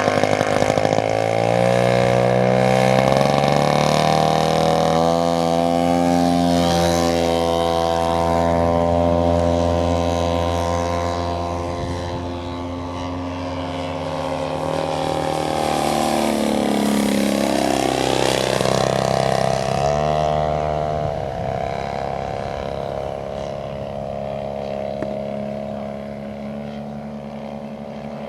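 Engine and propeller of a 1/3-scale radio-controlled Cessna 182 model plane in flight, its pitch stepping up and down several times as the throttle is worked. A little past halfway the tone sweeps down and back up as the plane passes close by.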